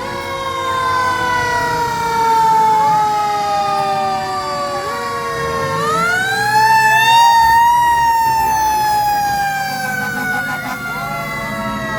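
Fire truck sirens sounding together, several pitched tones falling slowly in long glides. About six seconds in, one siren winds up and then falls back down.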